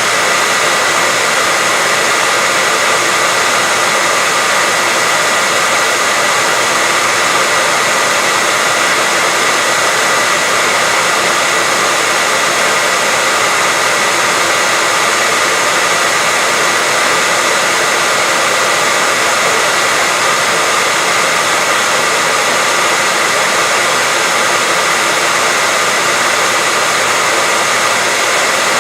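Continuous white-noise track: an even, loud hiss that never changes, with a faint steady high tone running through it.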